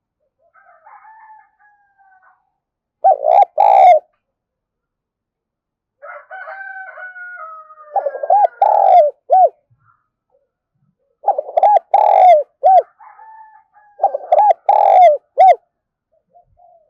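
Decoy spotted dove cooing, four phrases of short rounded coos, the loudest sound throughout. A rooster crows faintly in the background about a second in and again around six seconds in.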